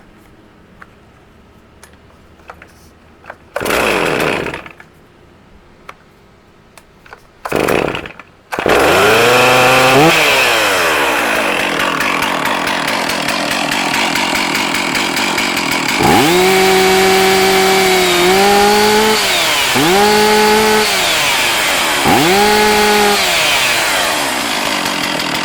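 Stihl MS460 two-stroke chainsaw being pull-started: two pulls on the cord, then it catches on the second pull and runs. It settles to idle, then is revved up and back down about four times.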